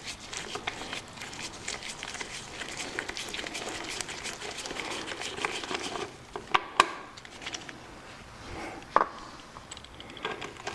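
Hand ratchet wrench clicking fast as 3/8-inch bolts are backed out of a motorcycle, with a few sharper metal knocks after about six seconds.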